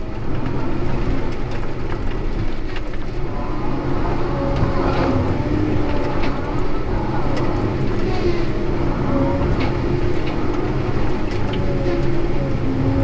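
Heavy diesel logging machinery running steadily, with a wavering whine and scattered clicks and knocks.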